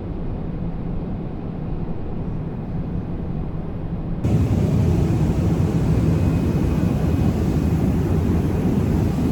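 Steady rushing drone of engine and airflow noise inside a Boeing 777 airliner cabin in flight. About four seconds in it becomes suddenly louder and hissier.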